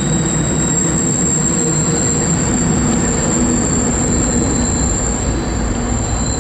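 Diesel-hauled freight train running past, its engines droning low under the rumble of the cars, with a steady high-pitched wheel squeal.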